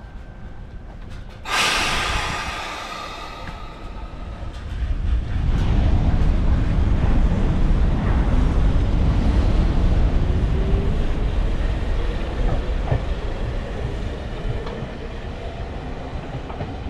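Local train running on the rails: a sudden loud noise about a second and a half in, then a heavy low rumble that builds, holds and eases off, with a faint rising whine in the middle.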